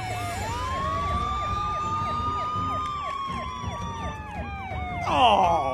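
Emergency vehicle sirens sounding together: a slow wail that falls and rises, over a fast yelp sweeping up and down several times a second. A louder, brief burst breaks in about five seconds in.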